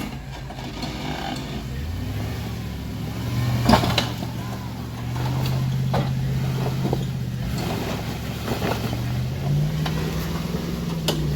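Jeep engine running at low revs as it crawls through a rocky trail section; the revs step up twice. A few sharp knocks and clunks come through, the loudest about four seconds in.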